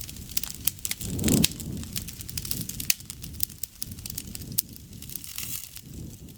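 Campfire crackling: a wood fire popping with frequent sharp cracks over a low, steady rumble of flames, with a louder surge about a second in.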